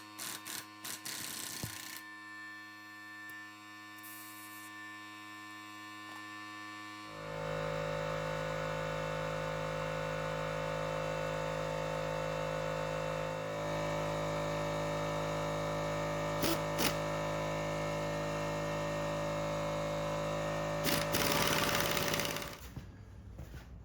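A steady machine hum made of several even tones, starting about seven seconds in, shifting slightly midway, and cutting off abruptly near the end, after a few scattered clicks at the start.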